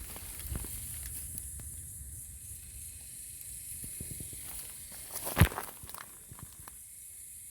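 Footsteps on a bush walking trail over a steady high insect hiss, with one sharp knock about five and a half seconds in.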